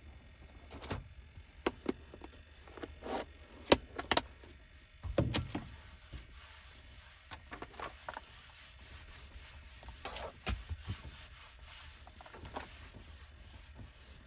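Irregular knocks, clicks and rubbing of objects being handled and set down, with a heavier thud about five seconds in.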